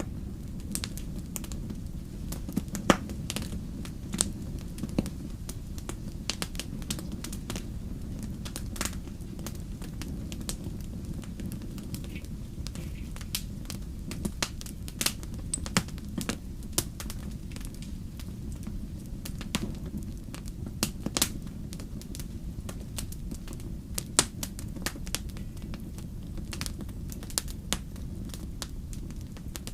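Wood fire burning: a steady low rumble of flames with sharp, irregular crackles and pops of burning logs, a few of them loud.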